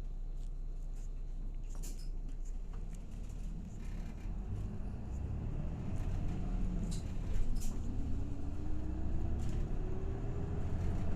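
Diesel engine of a route bus heard from inside the cabin: a steady low idle hum, then from about four seconds in the bus gets louder and pulls away, with an engine and drivetrain note rising steadily in pitch as it accelerates. A few sharp clicks sound along the way.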